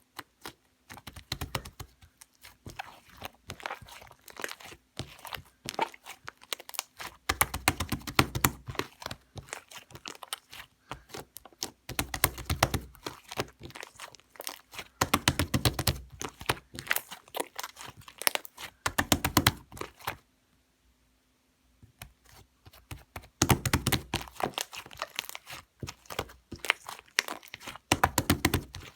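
Shaving foam being squished and pressed, making dense crackling, crunchy clicks in bursts of a few seconds, with a short pause about twenty seconds in.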